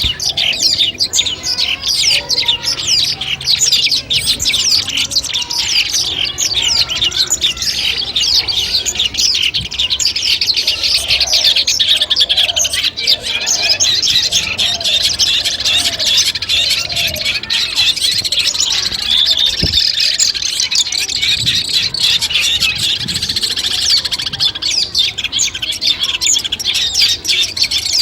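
Long-tailed shrike (cendet) singing a dense, continuous stream of rapid, high chirps and chattering notes.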